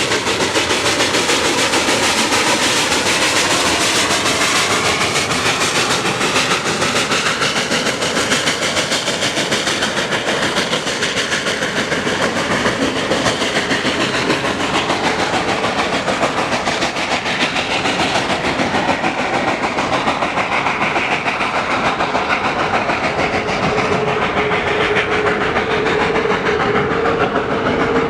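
Steam-hauled train of Reading T-1 4-8-4 No. 2102 running, a steady, loud noise of the locomotive and its wheels on the rails. A steady tone comes in near the end.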